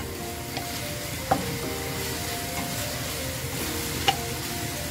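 Minced pork sizzling steadily as it fries in olive oil in a pan, with a spatula knocking against the pan twice, about a second in and near the end.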